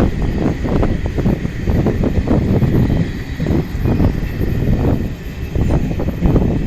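An arriving train, led by ONCF electric locomotive E-1261, rumbling past at close range, with irregular clattering of wheels and wagons over the track and wind buffeting the microphone.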